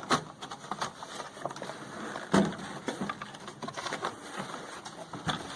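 Irregular clicks and knocks of the generator's plastic housing panels and parts being handled during disassembly, with two louder knocks, one just after the start and one about two and a half seconds in.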